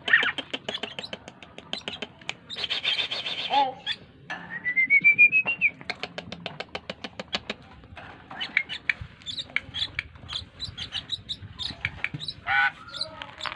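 Glossy starling (jalak keling) singing: rapid clicking chatter with a harsh buzzy burst about three seconds in, then a single rising whistle, then more chattering notes.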